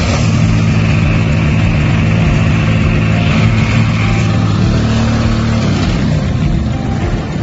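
Small silent diesel generator engine running steadily at constant speed, with a slight shift in its low hum about six seconds in.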